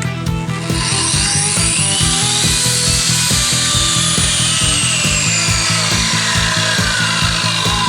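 Makita angle grinder cutting into a concrete slab edge: its high whine climbs in pitch over the first few seconds, then sinks slowly as the blade is pressed into the cut. Background music with a steady beat runs underneath.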